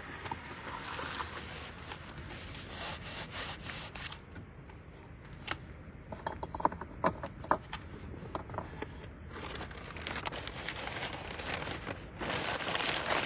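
Phone being handled and set down in a moving car: rubbing and scraping against the microphone, with a cluster of sharp clicks and knocks about halfway through, over the steady low rumble of the vehicle on the road.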